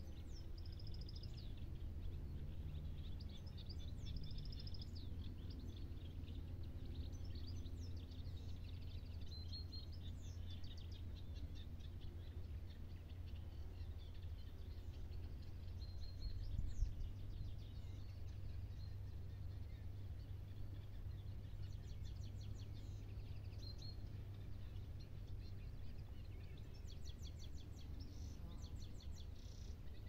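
Small birds singing and calling, short chirps and trills scattered throughout, over a steady low rumble. A single brief thump about seventeen seconds in.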